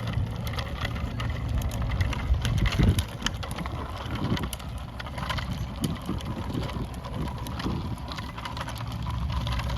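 Wind rumbling on the microphone and tyre noise from a bicycle being ridden along a sidewalk, with scattered light clicks and rattles from the bike.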